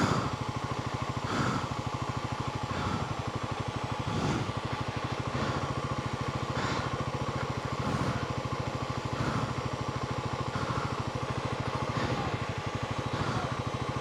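Royal Enfield Himalayan 450's single-cylinder engine running steadily at low revs, without revving. A short, regular swell comes a little over once a second.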